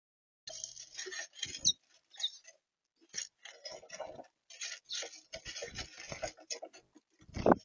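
Small garden birds at a seed feeder: irregular pecking, tapping and scratching close by, with a few brief high chirps. A louder knock comes near the end.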